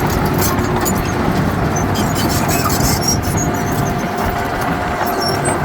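Diesel engine of heavy earthmoving machinery running steadily under load, with a faint steady whine and light scattered clatter.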